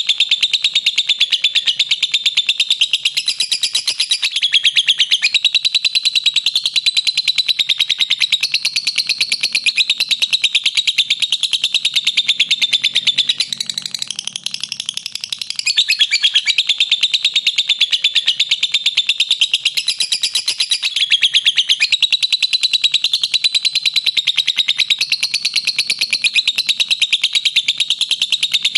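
Lovebird giving its long 'ngekek' song: a loud, fast, continuous run of shrill chattering notes with only a brief softer stretch about halfway through.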